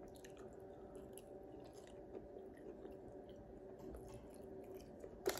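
A person chewing a mouthful of boneless chicken wing, which is super chewy: faint chewing with small scattered clicks, and a sharper click about five seconds in.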